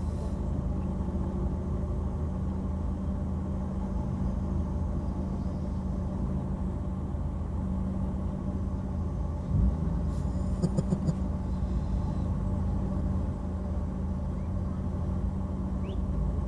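Steady low hum of a car engine idling, heard from inside the car's cabin. About nine and a half seconds in there is a short thump, then a few quick clicks.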